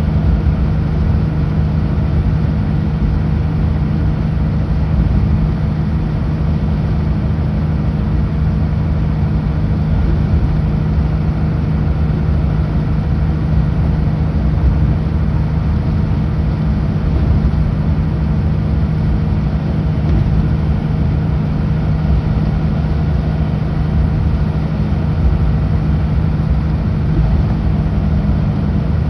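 Kenworth W900L semi truck's diesel engine droning steadily at highway speed, with road noise and no changes in pitch.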